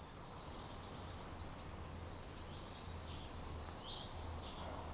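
Birds chirping in many short, high calls over a low steady hum.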